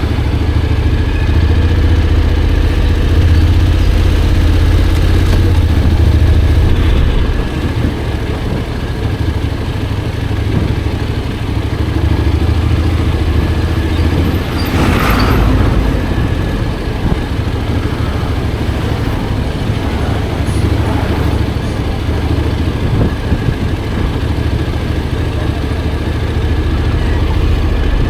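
Honda X-ADV 750's parallel-twin engine and road rumble during a ride: a steady low drone, with a brief louder rush about halfway through.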